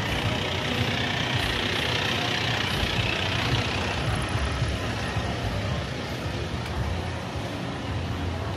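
Street traffic: engines running low and steady, under a hiss that is strongest over the first few seconds and eases off after about five seconds.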